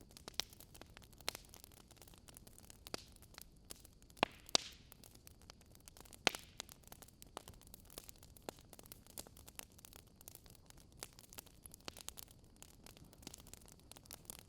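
Campfire burning: irregular sharp crackles and pops of burning wood over a faint steady hiss, with a few louder pops about four and six seconds in.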